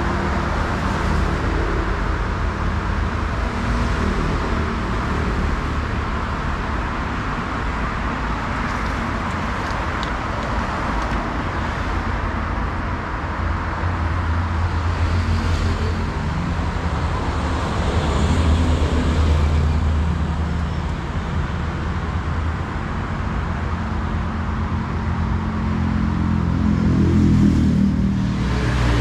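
Road traffic with heavy vehicle engines running steadily. An engine rises in pitch and gets louder near the end, as if revving or drawing close.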